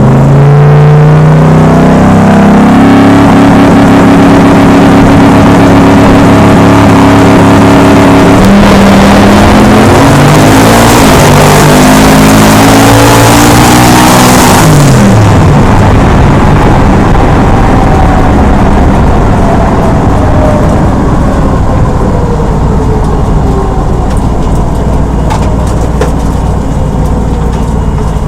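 Twin-turbo 5.3-litre LS V8 drag car making a full-throttle pass. The engine pitch climbs hard from the launch and steps down at each gear change, with a rising hiss near the top end. It falls away sharply about halfway through as the throttle is lifted, then winds down while the car coasts.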